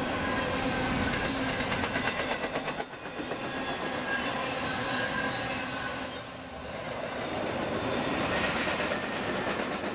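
Freight train's intermodal cars, double-stacked containers and truck trailers on flatcars, rolling steadily past at trackside: a continuous rumble of steel wheels on the rails with clicking over the rail joints.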